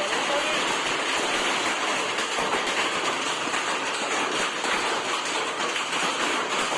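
Heavy rain mixed with hail pelting down, a dense, steady patter of hits.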